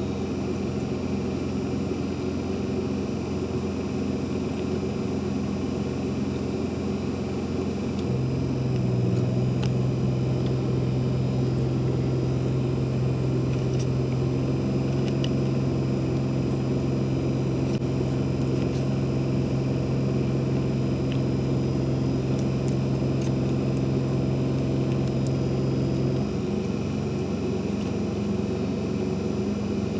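A steady low mechanical hum, like a running engine, that rises to a higher, louder drone about eight seconds in and settles back lower near the end.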